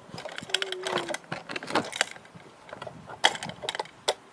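Irregular clicks and knocks of a small plastic toy dog coin bank being handled, with a brief faint tone about half a second in.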